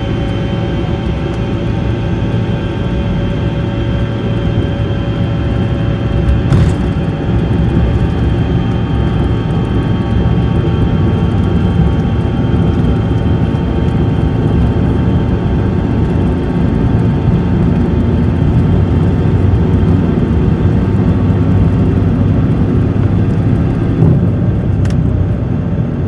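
Inside the cabin of a Bombardier CRJ-200 during takeoff: the rear-mounted CF34 turbofans at high power give a loud, steady rumble with a whine of several steady engine tones over it. Two faint clicks come through about six seconds in and near the end.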